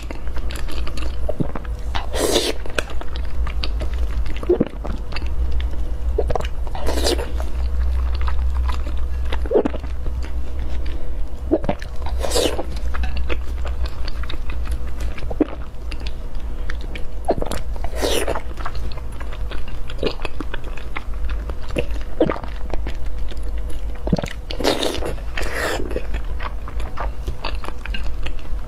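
A person biting and chewing food close to the microphone, with repeated crunchy bites every few seconds over a steady low hum.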